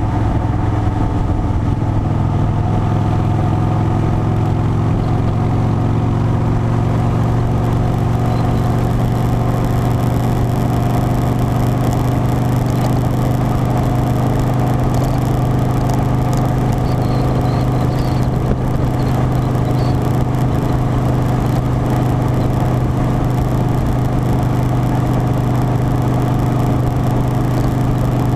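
Harley-Davidson Softail Standard V-twin engine running at a steady speed, its low even note held with only a slight change in pitch in the first few seconds, under a steady rush of noise.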